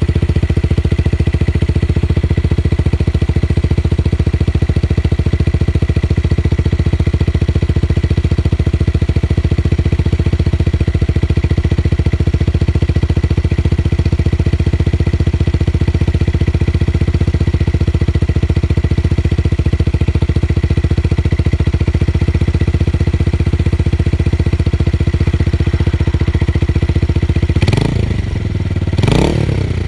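Tuned motorcycle engine idling with a steady, deep bass exhaust note, then two quick throttle blips near the end.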